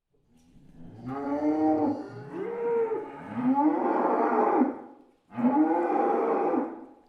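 Cow mooing: a few long, drawn-out calls, each rising and falling in pitch, with a short break before the last one.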